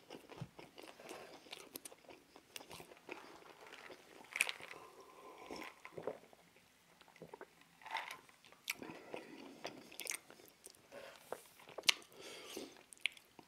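Close-miked chewing and crunching of fried chicken and fries, with sharp wet mouth clicks scattered throughout.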